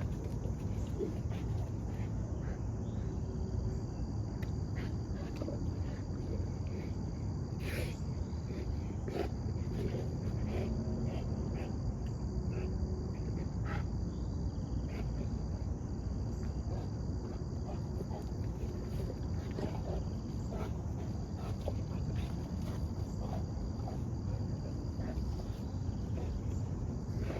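Insect trilling in high-pitched stretches of a second or more with short breaks, over a steady low background noise and scattered light clicks.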